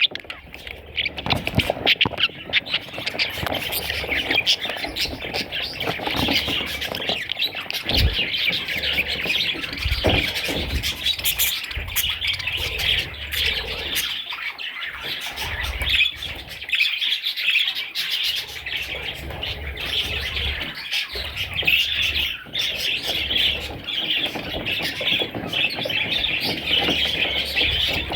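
Budgerigars chattering and squawking continuously, a dense flock-like chatter of many short calls.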